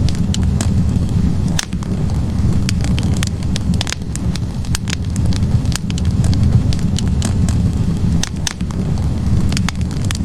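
Wood fire burning in a fireplace: a steady low rumble of flames with frequent sharp crackles and pops from the burning logs, scattered irregularly throughout.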